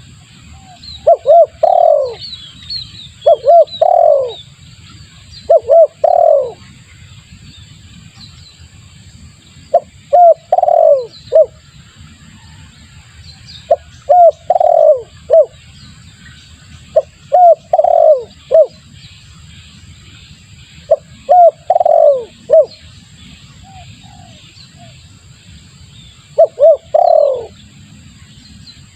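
Spotted dove cooing, a lure call: repeated phrases of two or three short coos ending in a longer falling coo, about every three to four seconds. Faint high chirps of small birds sound alongside.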